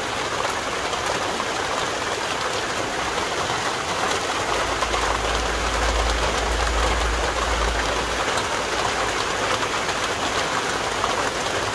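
Steady rain falling, an even hiss, with a low rumble for about four seconds in the middle.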